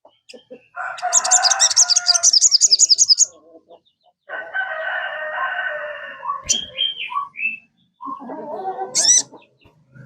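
Birds calling in three loud, harsh phrases of about two seconds each, the first topped by a fast high-pitched trill and the last by a brief high rising note.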